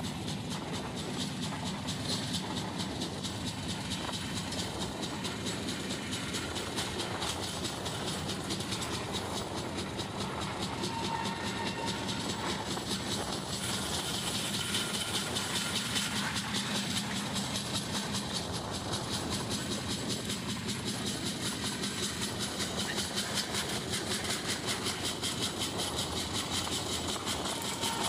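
Express passenger train running along the track, heard from aboard: a steady rumble with a fast, regular clatter of wheels over the rails.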